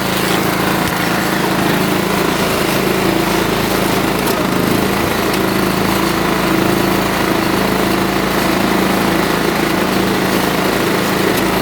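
Small tractor engine running steadily at an even speed.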